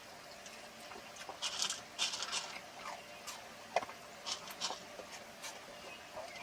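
A fork scraping and clicking against a metal cooking pot as food is eaten from it: short, irregular scrapes with a few brief squeaks.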